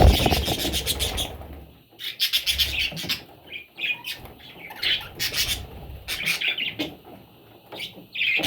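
Budgies chirping in short, repeated bursts.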